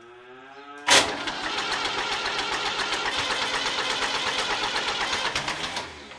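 David Brown 1490 tractor's four-cylinder diesel being cranked on the starter motor. It kicks in sharply about a second in and turns the engine over with a fast, even pulsing for about five seconds, then is released and winds down without the engine catching.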